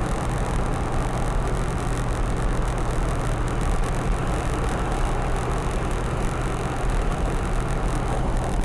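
Cabin sound of a Land Cruiser FJ80 cruising down the road under its swapped-in 6.5 L turbo-diesel V8, exhaust nearly a straight pipe off the turbo, with a steady drone of engine, road and wind noise.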